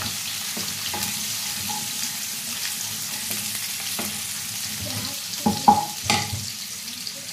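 Sliced onion and garlic sizzling in hot oil in a kadai while a wooden spatula stirs and scrapes through them. A few louder knocks of the spatula against the pan come about five and a half to six seconds in.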